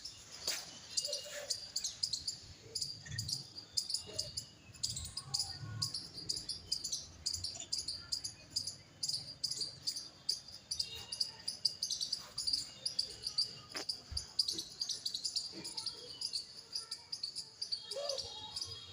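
Insects chirring steadily in a high-pitched, rapidly pulsing drone, with a few scattered soft knocks.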